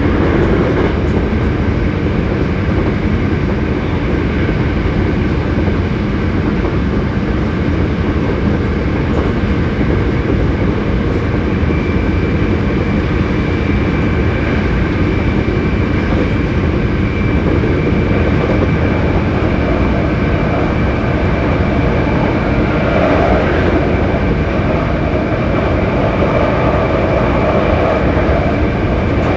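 Hankyu 7300 series electric train car running steadily between stations, heard from inside the car: a constant rumble of wheels on rail and the running gear. A thin, high, steady tone joins about twelve seconds in. This car is known for an unusual running noise.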